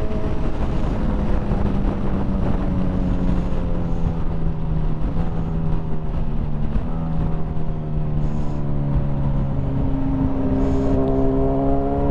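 Motorcycle engine running at road speed with wind rushing over the microphone; the engine note sinks slowly as the bike slows, then steps up and climbs again about two seconds before the end.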